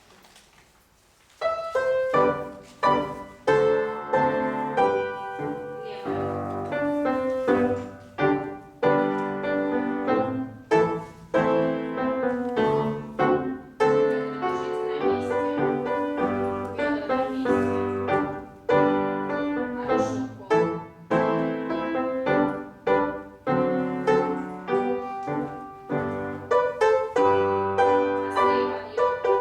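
Piano playing classical-style accompaniment for a ballet class exercise, with chords struck on a steady beat. It starts about a second and a half in.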